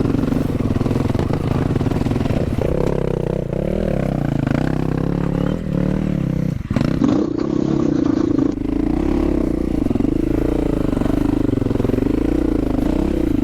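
Dual-sport motorcycle engine running steadily. Its note steps up about two and a half seconds in and changes again around the middle.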